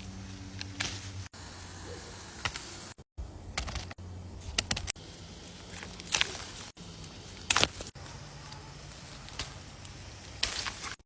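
Rustling and handling sounds while pomegranates are picked from the tree: scattered short clicks and snaps over a low steady hum.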